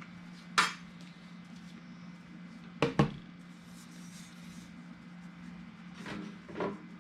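Knocks and clunks of the inline duct booster and duct pipe being handled during fitting, five in all, the loudest a pair about three seconds in, over a steady low hum.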